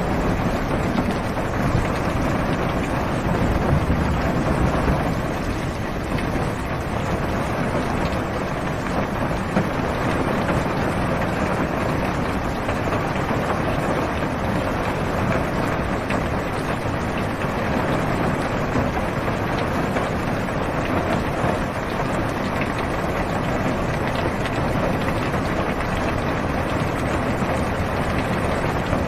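Steady rain falling on a car's roof and windows, heard from inside the car: an even, unbroken wash of noise with a deep low rumble beneath it.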